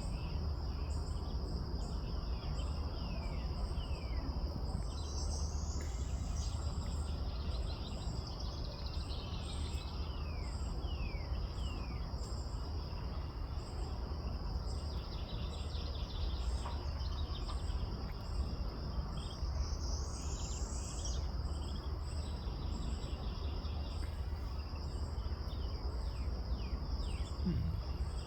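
Outdoor insect chorus: a steady high insect drone with a regular pulsing chirp above it, over a low steady rumble. Short falling bird chirps come in scattered runs, and two rising calls sound about fifteen seconds apart.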